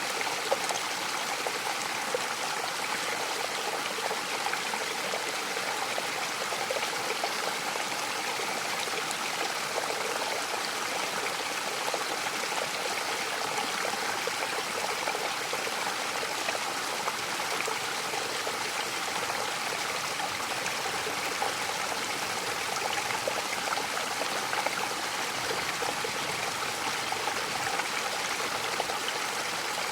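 Mountain waterfall running steadily, an even rush of falling water that does not change.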